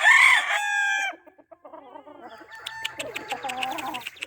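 Gamefowl rooster crowing loudly, the crow ending about a second in, followed by quieter clucking from chickens and a run of light clicks.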